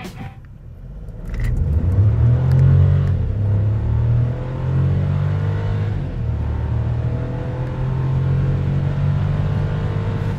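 Volkswagen Polo's 1.0 TSI turbocharged three-cylinder petrol engine under full-throttle acceleration with the DSG automatic gearbox. The engine note builds about a second and a half in and climbs in pitch, dropping back twice as the gearbox shifts up.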